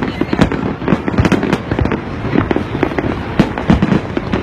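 Fireworks going off in rapid succession: many sharp bangs and crackles, several a second, over a continuous rumble of explosions.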